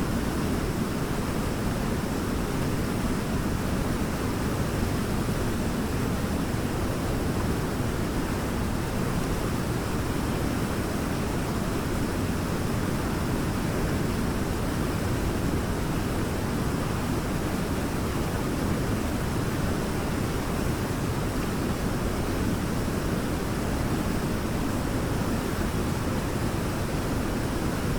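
Waterfall crashing steadily into its pool: a constant, deep rushing of falling water.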